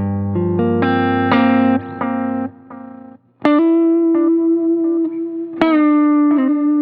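Electric guitar played through a Boo analog delay pedal and a Line 6 HX Stomp amp modeller: a quick run of picked notes whose repeats die away about three seconds in, then, after a short gap, two sharply picked single notes, each held and ringing with vibrato.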